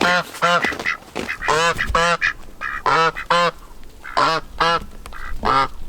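Domestic ducks quacking over and over, loud and close, the quacks mostly coming in pairs.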